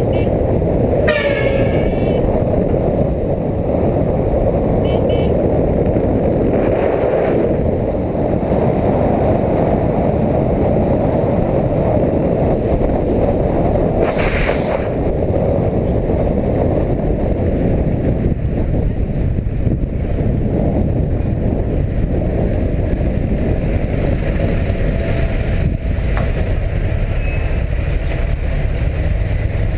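Steady wind and road noise from a moving motorcycle, with a vehicle horn sounding briefly about a second in.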